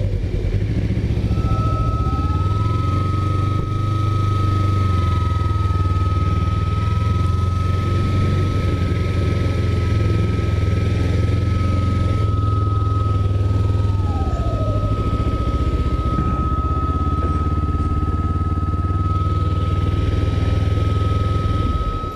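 Motorcycle, the 2009 Kawasaki Ninja 250R, cruising at a steady speed: a continuous low rumble of engine and wind, with a steady high-pitched whine over it.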